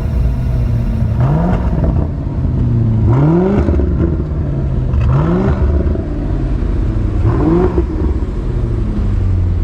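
Range Rover's 4.4-litre twin-turbo V8 through a QuickSilver Sound Architect sport exhaust, revved in four short blips about two seconds apart, each rising and falling in pitch over a steady running drone.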